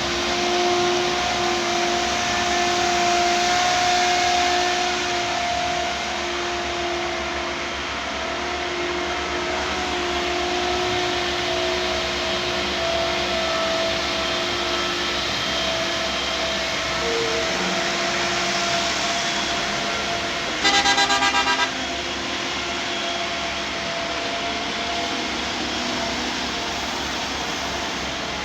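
Heavy quarry machinery engine running steadily, with a wavering whine over the noise. About three quarters of the way through, a vehicle horn sounds once, a fluttering blast lasting about a second.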